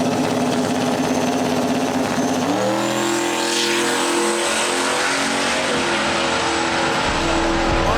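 Turbocharged LS V8 of a Datsun 240Z running hard under load, its engine note stepping up in pitch about two and a half seconds in, with a faint high whine rising slowly above it.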